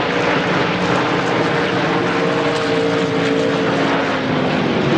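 Racing drag boat engine running loud and steady, with a dense, noisy exhaust and a few engine tones under it.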